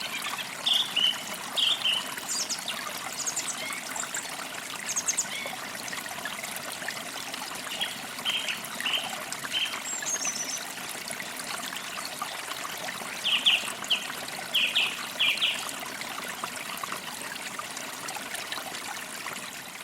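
Forest creek trickling steadily, with birds chirping in short bursts of calls, three groups of them and a few higher calls in between. The whole sound fades out at the very end.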